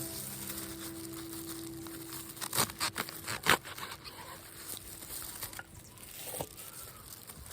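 Sharp crinkling and rustling handling noises, several quick cracks bunched about two and a half to three and a half seconds in and one more near six and a half seconds, as a lingering music note fades out.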